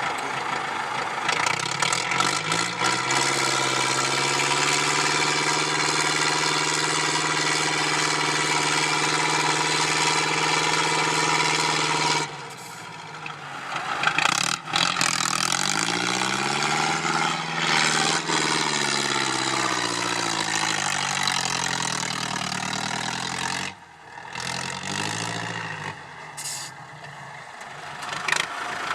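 IFA W50 off-road trial truck's diesel engine working hard: it holds steady at high revs for several seconds, drops off abruptly about twelve seconds in, then revs rise and fall in swells before dropping again near the end.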